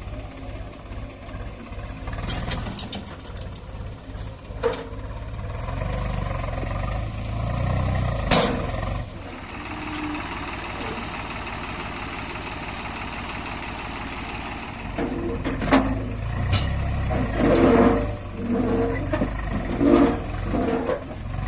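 Heavy diesel machinery running steadily while working, with a few sharp knocks and, in the last few seconds, a series of louder uneven bursts.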